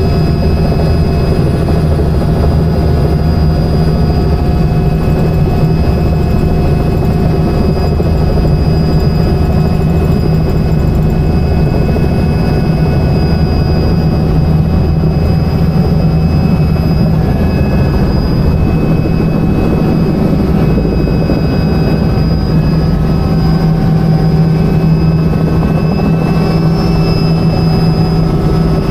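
Helicopter engine and rotor running steadily, with a constant drone and an even whine.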